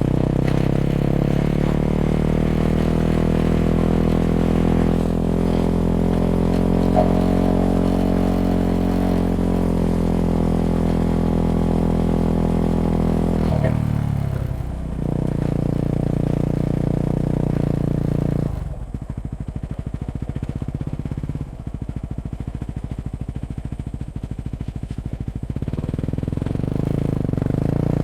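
Yamaha WR250X's 250 cc single-cylinder four-stroke engine running through an FMF Q4 exhaust while riding: a steady pull with the pitch gently rising and falling, a drop in revs about halfway through, then several seconds of low, uneven running with distinct firing pulses before the revs pick up again near the end.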